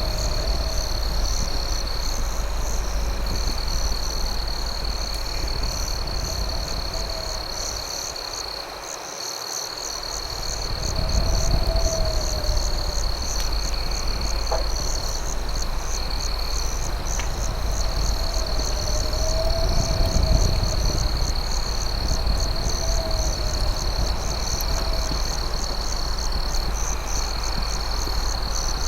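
Night insect chorus: crickets holding one steady high trill, with a faster pulsing chirp above it. Underneath runs a steady low rumble, and a soft rising-and-falling call repeats every few seconds. A couple of faint sharp cracks come near the middle.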